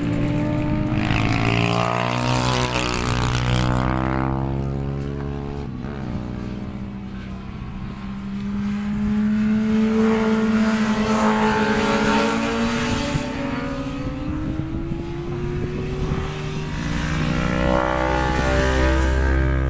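Track-day motorcycles passing on the circuit at speed. Their engine notes rise and fall as they go by: one close pass about a second to four seconds in, another around ten to thirteen seconds, and another near the end.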